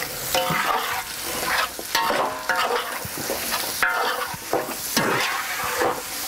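Onions and smoked banana flower frying and sizzling in a large aluminium pot, stirred with repeated scraping strokes against the pot and a few brief squeals from the scraping.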